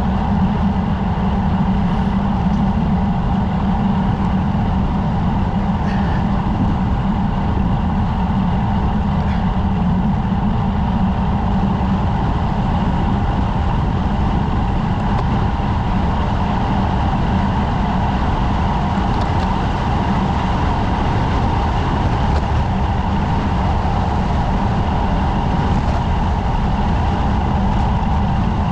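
Steady, loud wind and road rumble on a camera riding on a road bicycle, with no breaks.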